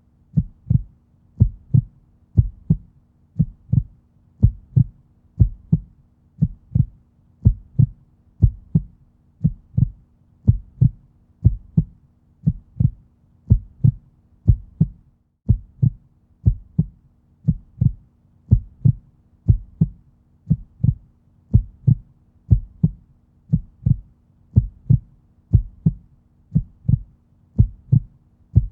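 Heartbeat, steady double lub-dub thumps repeating about once a second, over a faint steady low hum.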